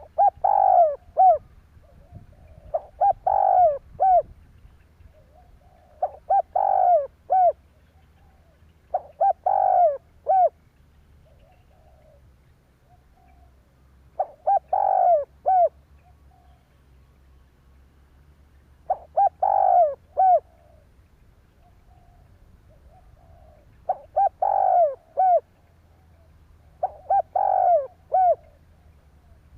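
Spotted dove cooing: eight short, repeated coo phrases, a few seconds apart, with soft low notes between them. This is the decoy call played to lure wild spotted doves.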